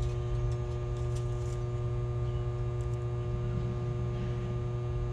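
Steady electrical mains hum, even in level, with a couple of faint light clicks.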